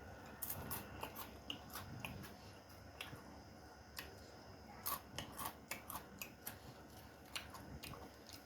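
Crisp food being bitten and chewed close to the microphone: a run of irregular sharp crunches and crackles, busiest near the start and again past the middle.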